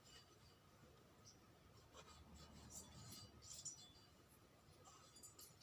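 Faint, irregular scratching of sandpaper rubbed by hand against a motorcycle cylinder bore, polishing it to a shine.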